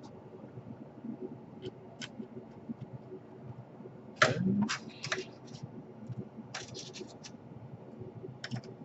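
Light handling noises from work on an open laptop: scattered small clicks and scrapes of plastic parts and tools, with a louder burst of scraping and clatter about four seconds in.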